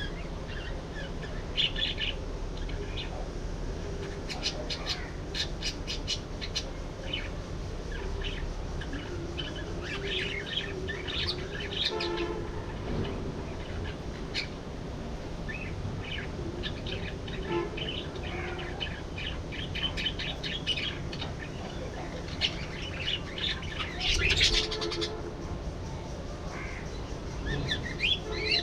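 A flock of budgerigars chattering, many short rapid chirps and warbles overlapping, with a louder flurry a little before the end.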